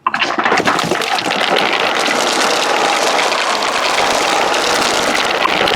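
Marbles rolling down a wooden marble-run track, a dense, steady clattering rattle that starts suddenly.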